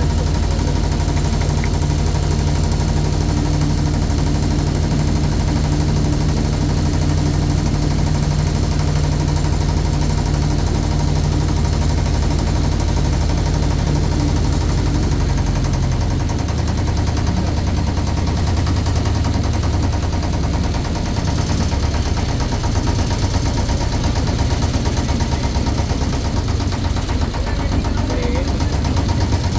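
Motorboat engine running steadily with a rapid chugging; its note changes about halfway through.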